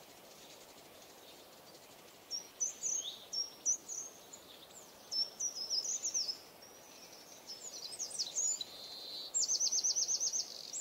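A songbird singing over a faint steady outdoor background: short phrases of quick high chirps and downward-sweeping notes begin a couple of seconds in, and the song ends in a fast, even trill.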